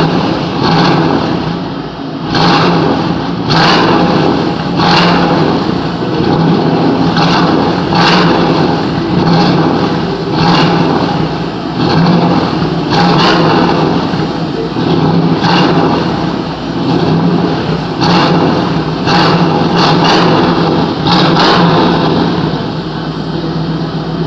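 1988 Chevrolet Camaro IROC-Z V8 running just after a cold start, its exhaust note swelling and easing in a steady rhythm about once a second, with a sharp crackle on each swell.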